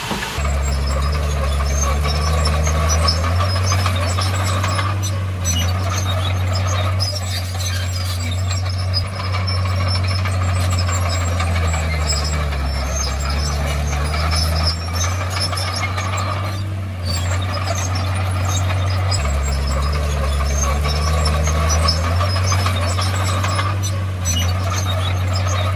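Komatsu D51PX bulldozer's diesel engine running under load, its pitch stepping up and down several times, with squealing and rattling from the steel tracks.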